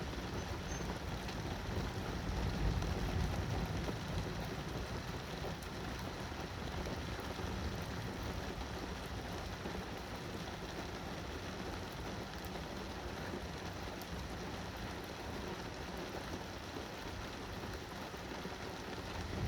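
Steady rain falling during a thunderstorm, with a low rumble of thunder fading away over the first few seconds.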